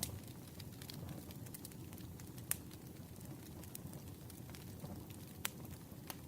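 Campfire burning: a steady low rumble of flames with scattered crackles and wood pops, and two sharper snaps, one a little before halfway and one near the end.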